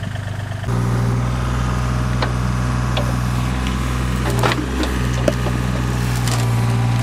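An engine of a working farm machine running steadily, getting louder about a second in, with a few sharp knocks and clacks over it.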